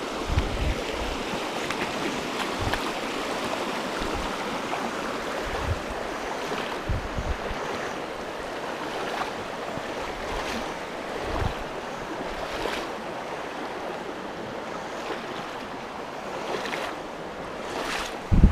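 Steady rush of flowing river water, with wind buffeting the microphone in occasional low thumps and one louder thump near the end.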